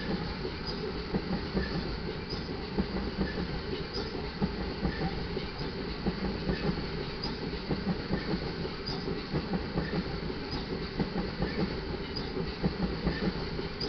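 Loaded iron ore hopper cars of a freight train rolling past, their steel wheels clacking steadily over the rail joints.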